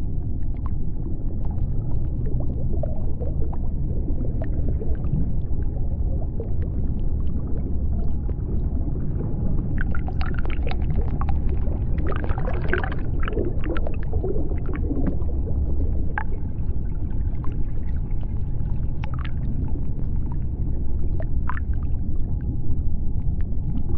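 Underwater ambience of the sea floor: a steady deep rumble with scattered clicks and crackles, busiest for a few seconds around the middle, and a faint steady hum above the rumble.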